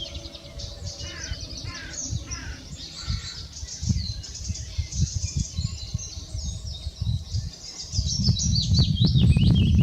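Small songbirds singing: a dense stream of rapid, high chirps and trills. Under it runs a low rumble that grows loud about eight seconds in.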